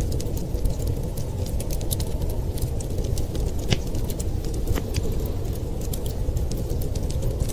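Wood fire crackling, with irregular sharp pops and snaps, over a steady low rumble of winter storm wind.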